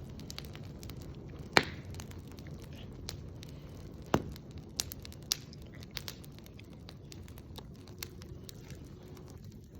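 Campfire crackling: irregular sharp pops and snaps, two louder pops about a second and a half in and about four seconds in, over a low steady rush.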